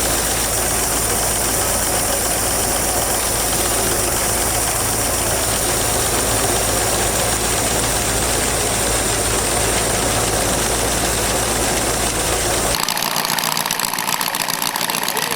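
An engine running steadily at idle. Near the end the sound changes abruptly to a lighter note with a quick, even ticking and less low rumble.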